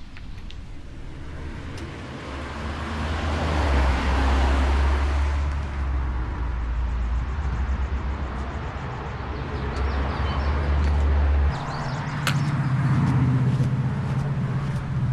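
A motor vehicle going by on a road: engine and tyre noise swells to its loudest about four seconds in over a steady low engine hum. The hum changes suddenly near the end, where a few light clicks follow.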